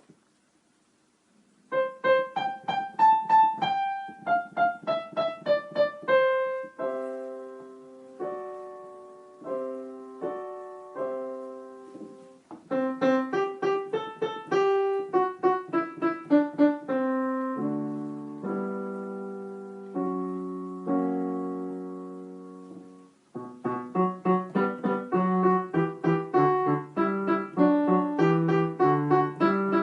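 Solo piano playing a short classical piece. It starts about two seconds in and goes in phrases of melody over chords, with brief breaths between phrases.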